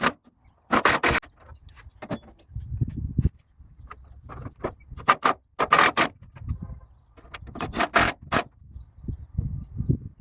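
Metal tools and parts clinking and clattering against metal in irregular clusters, with duller low knocks between.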